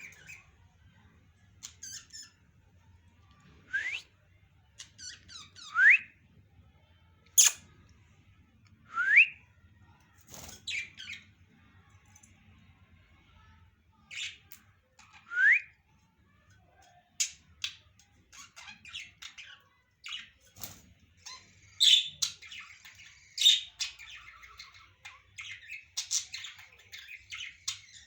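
Pet parrots calling: short rising whistles and sharp squawks spaced a few seconds apart, turning into a busy run of chattering calls about two-thirds of the way through.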